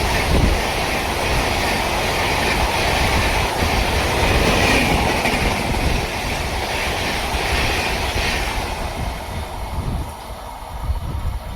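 A train passing close by: its wheels running on the rails, with a high-pitched band that comes and goes. The sound fades after about eight seconds as the train moves off.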